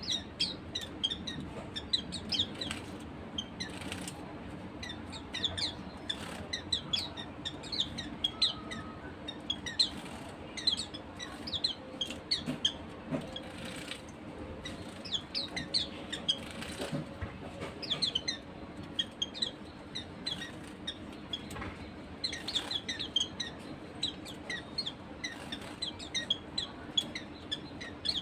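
Pleci (white-eyes) giving many short, high chirps throughout, with a few brief wing flutters mixed in.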